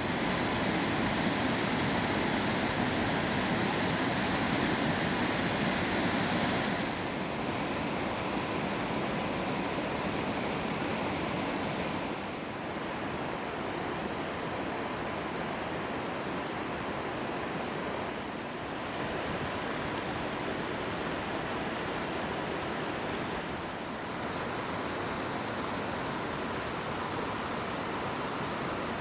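Waterfall: a steady rush of falling water. Its tone changes abruptly four times, brighter in some stretches and duller in others.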